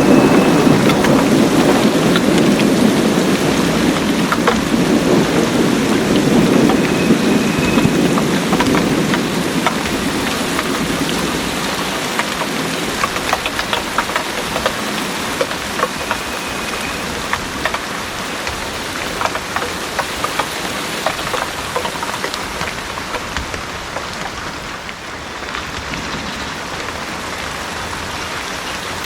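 Heavy rain pouring steadily with scattered heavy drips, under a low rolling thunder rumble that dies away over the first ten seconds or so.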